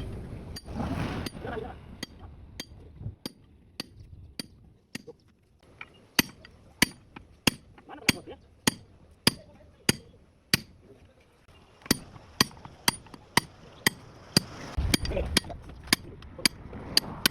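Hammer blows on metal, struck steadily about twice a second, with a short pause a little past halfway. Lighter, irregular knocks and a rumbling come at the start.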